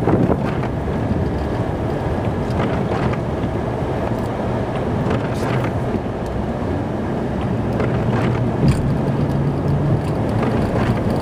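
Snow plow truck running steadily under load, heard from inside the cab, with a low engine drone that comes up more clearly in the second half and a few light clicks and knocks.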